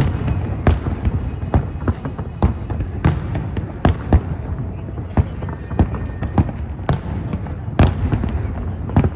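Aerial fireworks bursting in an irregular series of sharp bangs, about one or two a second, over a continuous low rumble.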